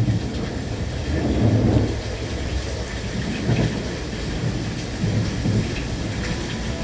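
Interior running noise of a JR West Thunderbird limited express train at speed: a steady low rumble and rush that swells briefly a few times.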